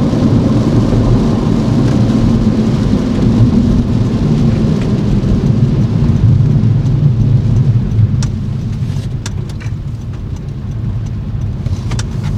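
Car driving on a wet road in the rain: a steady low rumble of engine and road noise with tyre hiss that eases and quietens about two-thirds of the way through. A few sharp ticks come near the end.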